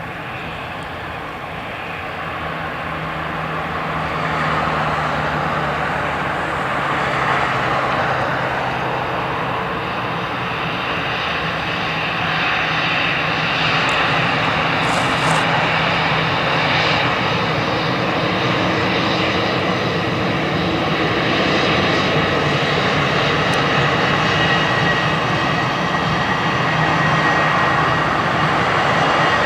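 Airbus A340-600's four Rolls-Royce Trent 500 turbofan engines running at high power, a dense roar with a faint whine. It grows louder over the first few seconds, then holds steady.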